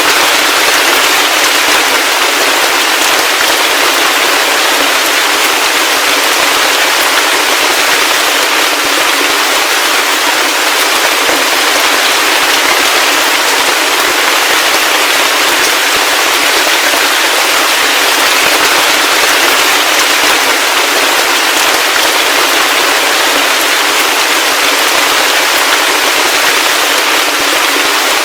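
Heavy rain falling steadily, a dense, even hiss of many drops with fine crackles and no low rumble.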